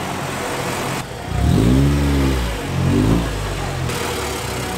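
Car engine running, then revved twice: one longer rev that rises and falls in pitch about a second in, then a short blip around the three-second mark.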